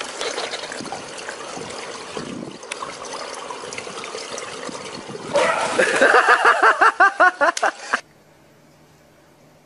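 Swimming-pool water lapping and splashing. About five seconds in, a person starts laughing loudly in rapid bursts for a couple of seconds, then the sound cuts off to a faint low hum.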